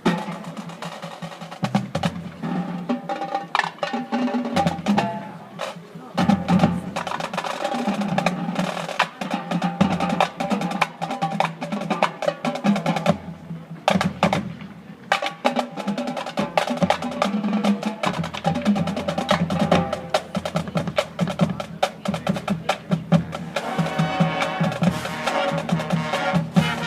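Marching band percussion section playing a busy rhythmic passage of rapid drum strokes and clicking wood-block-like hits over sustained pitched notes, with a brief break a little past halfway.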